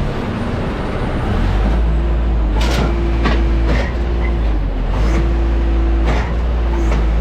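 Aircraft ramp noise while an Airbus A320-200 is being unloaded: a steady low rumble of ground equipment with a hum that comes and goes, and half a dozen sharp knocks and clatters of baggage or cargo being handled.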